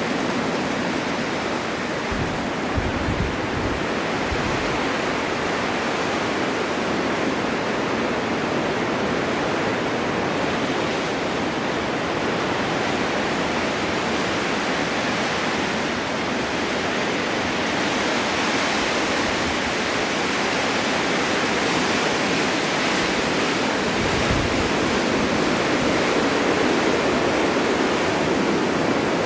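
Snowstorm wind blowing steadily, a dense rushing noise that swells in gusts, with brief low rumbles of buffeting about three seconds in and again near the end.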